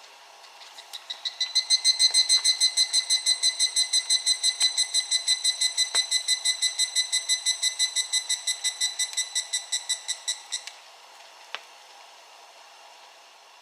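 Higurashi (evening cicada) singing its ringing 'kana-kana' call: a rapid train of about seven pulses a second that swells in over the first couple of seconds, holds steady, and cuts off sharply after about ten seconds. Faint rain patters underneath.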